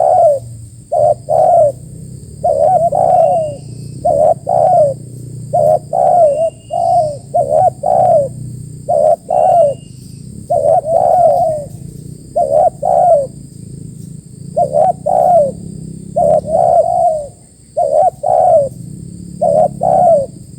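Spotted doves cooing over and over, loud coo notes in quick groups of two or three, with a few faint short high chirps from another bird about three to ten seconds in.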